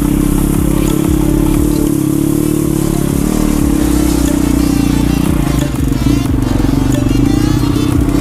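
Single-cylinder pit bike engine running steadily under throttle while riding, with wind noise over it; the sound dips briefly about six seconds in.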